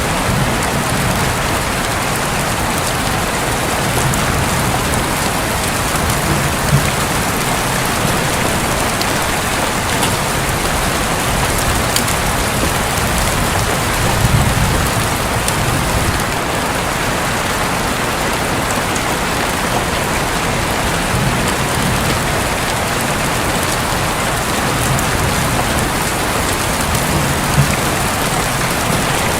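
Steady rain drumming on a roof, with faint low rumbles of thunder, the strongest about halfway through.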